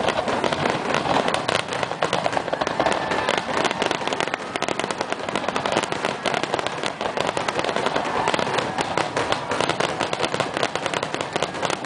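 Aerial fireworks display: a dense barrage of shell bursts and reports, many bangs in quick succession without a pause.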